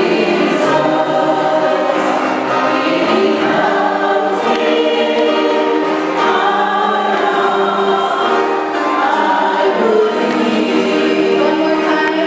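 A choir singing a hymn in sustained, held chords.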